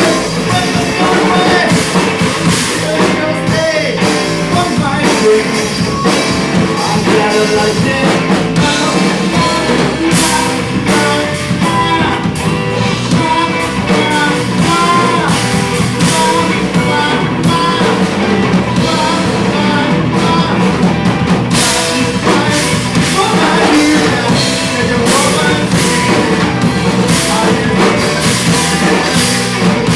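A live rock band playing, with drum kit and guitar, loud and continuous.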